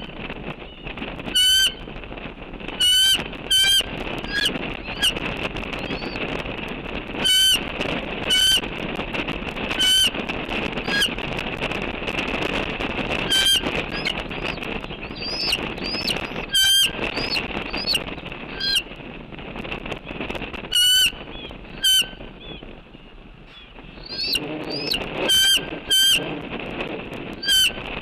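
About a dozen short, loud bird calls at irregular intervals, over a continuous chorus of many birds calling at once.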